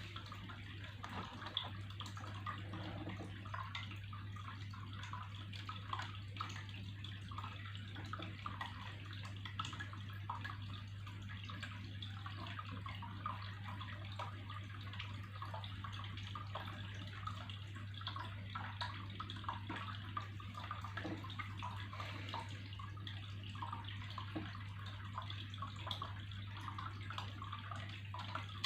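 Water trickling and splashing steadily in a dense patter of small drops, over a constant low hum.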